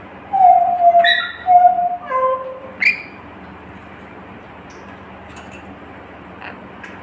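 Pet bird calling: a short run of clear whistled notes, one falling and two held lower ones, mixed with quick sharp chirps, over the first three seconds, then stopping.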